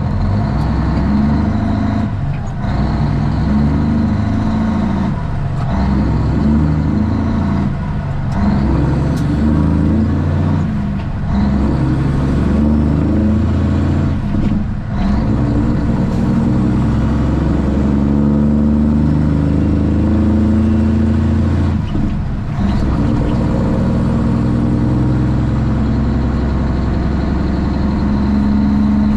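Straight-piped Cummins ISX inline-six diesel in a Kenworth T800 running under way, its exhaust note changing pitch in steps with several brief breaks between them, as through gear changes.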